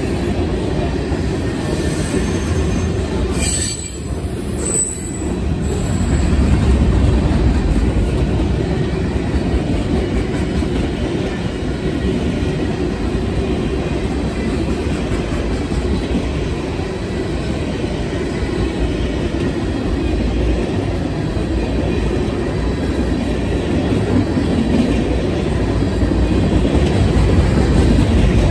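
Freight train passing close by, a steady low rumble of cars rolling over the rails, with a brief high-pitched wheel squeal a few seconds in.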